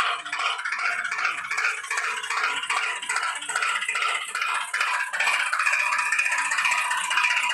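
Plastic toy vehicle rattling and clattering in a fast, irregular stream of small clicks over a steady hum.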